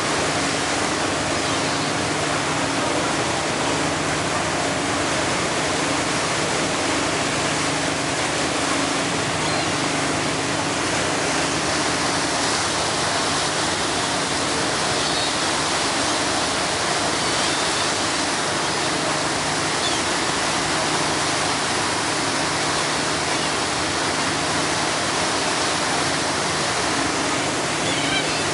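Steady rush of wind and churning water on a moving ferry, with a faint low engine hum underneath.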